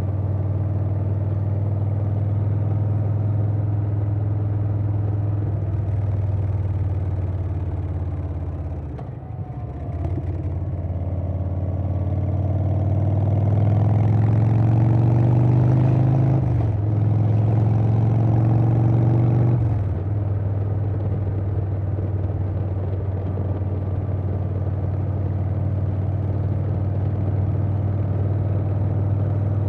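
A 2020 Harley-Davidson Softail Standard's Milwaukee-Eight V-twin, breathing through a Vance & Hines Big Radius 2-2 exhaust, running at a steady cruise. About nine seconds in the note dips briefly, then climbs under acceleration, with a short break around a gear change. It eases off about twenty seconds in and settles back to a steady cruise.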